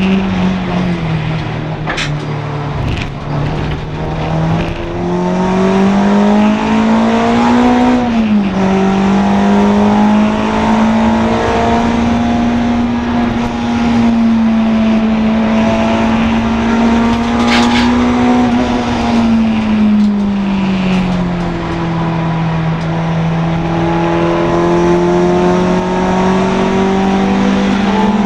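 Honda Integra DC2 race car's four-cylinder engine running hard at high revs. The note climbs and drops sharply about eight seconds in at a gear change, holds high, then falls away around twenty seconds as the car slows before climbing again. A couple of brief sharp clicks sit over it.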